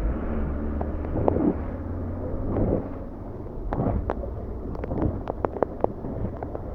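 Low rumble of a passing road vehicle fading over the first few seconds, with wind on the microphone, then a run of irregular sharp taps.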